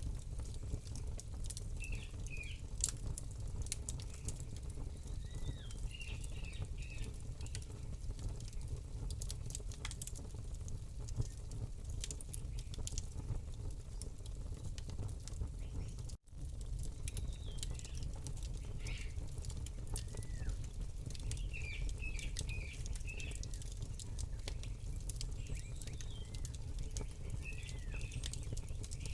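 Campfire crackling with frequent sharp pops over a low steady rumble, while small birds chirp in short repeated phrases. All sound cuts out for an instant just past halfway.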